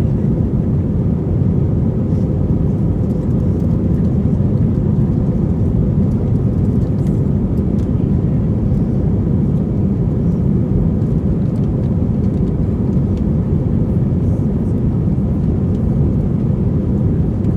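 Steady low roar of airliner engines and airflow as heard inside the cabin, with a faint steady hum above it. It holds an even level without rising or falling.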